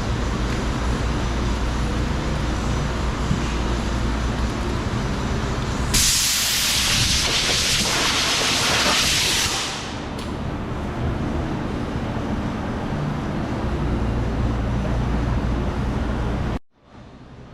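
Sanding on a body-filler repair, over a steady low hum. About six seconds in, a loud hiss of compressed air breaks in for close to four seconds, then the sanding noise resumes. It cuts off suddenly near the end.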